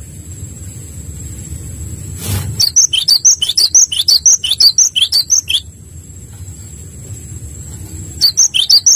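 Small songbird, taken here for a gelatik batu (cinereous tit), giving fast, high, repeated chirping notes in two bouts: the first from about two and a half seconds in to just past the middle, the second starting near the end. Low background rumble, with a brief thump just before the first bout.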